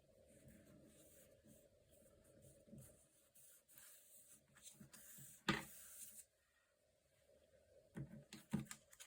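Faint rustling and tapping of sticker paper being handled and pressed down onto a journal page, with a sharp click about halfway through and two light taps near the end.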